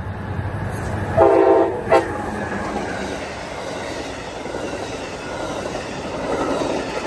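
Amtrak passenger train led by a Siemens Charger locomotive passing close by. Its air horn sounds one blast of about half a second a little over a second in, then a brief short toot. After that comes the steady rush and clatter of the passenger cars' wheels on the rails.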